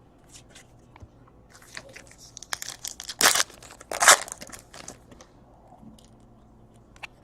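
Trading-card packs and cards being handled: paper-and-foil rustling and crinkling, with two louder crunches about three and four seconds in.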